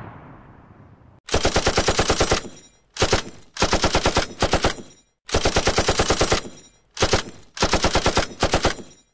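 Machine-gun fire sound effect in about seven rapid bursts of roughly ten shots a second, separated by short pauses. The first second holds the fading tail of an earlier blast.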